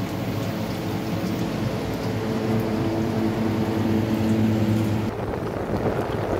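Mutton frying in oil in an open pressure cooker, a steady sizzling hiss over a low steady hum; the sizzle drops away about five seconds in.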